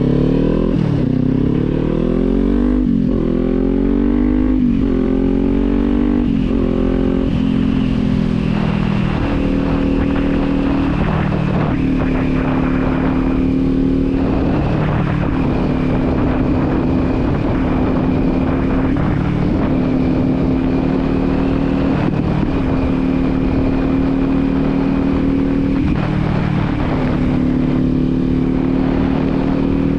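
Kawasaki Z400 parallel-twin engine and exhaust under hard acceleration. The revs climb and drop back with each upshift about every one to two seconds. It then settles into a steady cruise at even revs, easing off and picking up slightly now and then.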